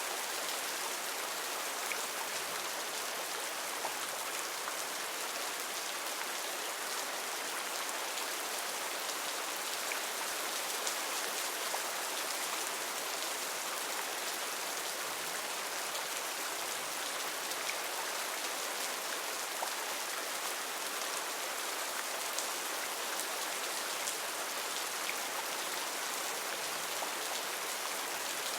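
Heavy rain falling steadily in a rainforest, an even hiss with scattered drops pattering.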